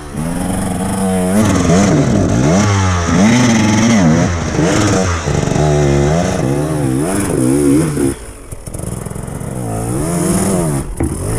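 Dirt bike engine revving hard up and down over and over, its pitch rising and falling about once a second. It drops back briefly about two-thirds of the way through, then revs again.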